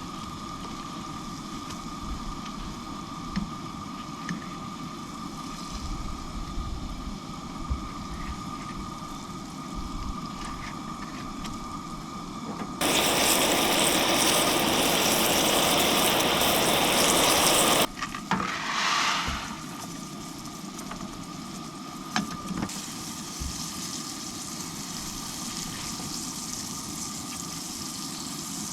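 Food frying in a pan, a steady sizzle with a much louder burst of hissing sizzle in the middle that starts and stops suddenly after about five seconds.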